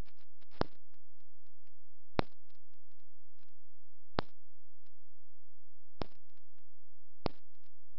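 Aerial fireworks bursting overhead: five sharp loud bangs, about every second and a half to two seconds, with fainter pops and crackles between them.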